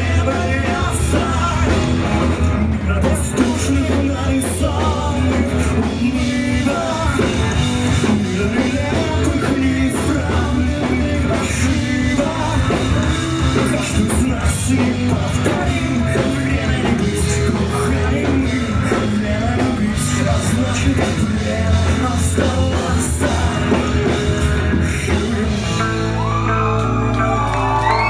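A rock band playing live with a sung lead vocal. About two seconds before the end the music changes to long held notes, as at the close of the song.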